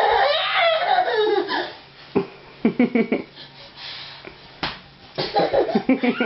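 A baby vocalizing: a high, wavering cry for the first second and a half, then two runs of quick, choppy voiced bursts.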